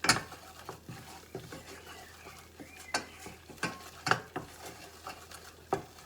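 A spoon stirring and scraping a butter-and-flour roux in a pan over low heat, with irregular clicks and knocks of the utensil against the pan.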